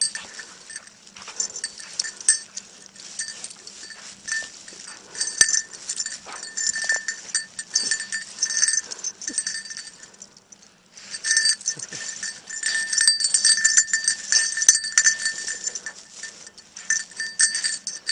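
A bell on a search dog's collar jingling in uneven shakes while the dog works at the snow pile, with scratchy scraping sounds underneath. It goes quiet for about a second partway through, then carries on.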